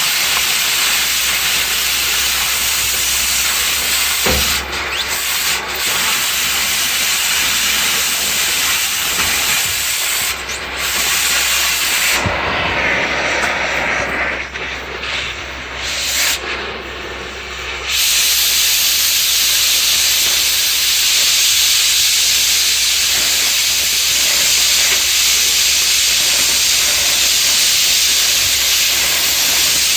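Oxy-fuel cutting torch hissing steadily as it cuts steel. The hiss weakens and wavers for several seconds about midway, then comes back full.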